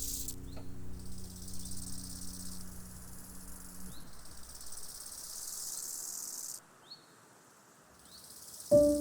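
Insects trilling high and steady in long stretches with short breaks, as forest ambience, over the last held low notes of a fading instrumental track that die away about halfway through. After a short near-silent gap, piano notes of a new piece strike near the end.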